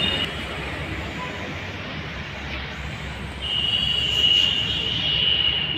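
Steady rumble of rail and road traffic at a level crossing. A thin, steady high-pitched tone comes in a little past halfway and holds for about two seconds.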